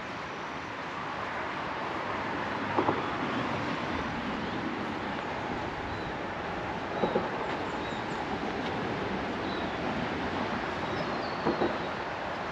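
Road traffic rumbling past, swelling and easing, with three loud double thuds a few seconds apart.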